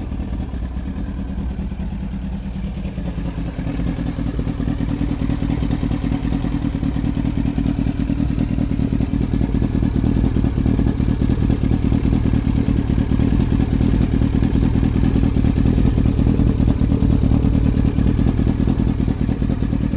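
Yamaha R1 inline-four engine idling steadily through twin Harris aftermarket exhaust silencers, growing louder about four seconds in.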